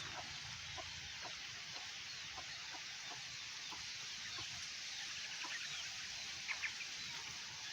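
Chickens clucking: many short, spaced clucks over a steady background hiss.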